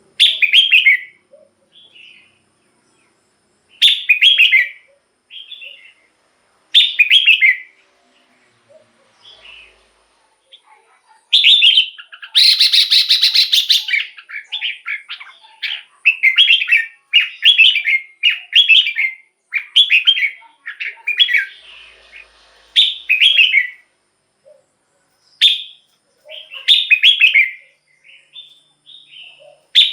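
Red-whiskered bulbul singing short whistled phrases a few seconds apart, with a quicker run of phrases through the middle and one harsh, rasping call about twelve seconds in.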